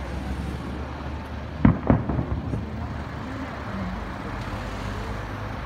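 Aerial firework shells bursting: two sharp booms in quick succession about a second and a half in, over a steady low rumble.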